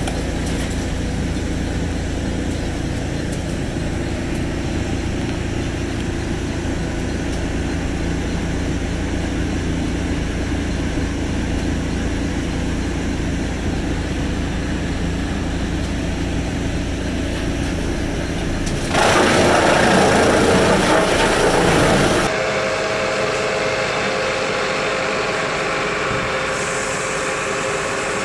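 Sawmill machinery running steadily with a low hum. About two-thirds of the way through, a louder, harsher noise of cutting lasts about three seconds, then a different steady machine sound takes over.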